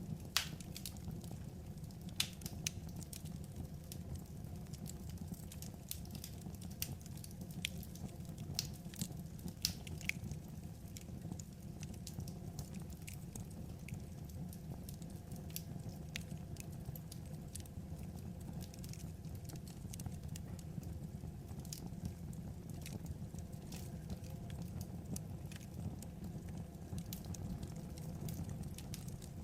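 Wood fire burning, a steady low rumble with irregular sharp crackles and pops of burning logs, more frequent in the first third.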